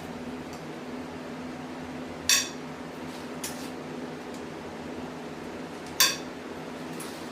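Two sharp, ringing metal clinks of hand tools against the Chevy 350 small-block while its head bolts are being broken loose, about two seconds in and again near the end, over a steady low hum.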